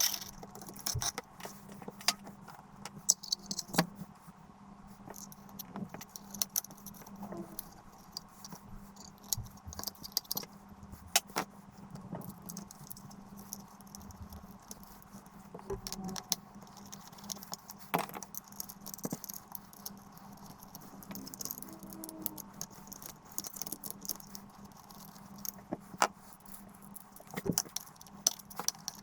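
Scattered small metallic clicks and rattles, like tools and small metal parts being handled, over a faint steady hum.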